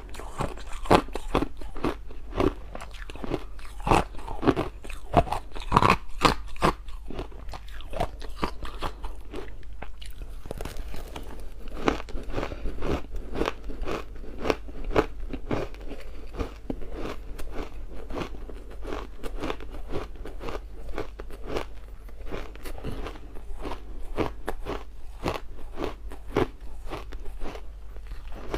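Ice being bitten and chewed close to the microphone: a dense run of sharp crunches and cracks. The loudest bites come in the first several seconds, followed by steadier chewing crunches.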